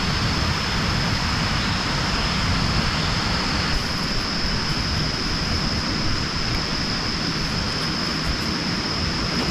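Heavy rain falling steadily with a deep, even rush, and a continuous high-pitched tone running through it.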